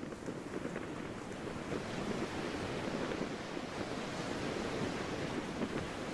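Sea waves washing with wind, a steady rushing noise.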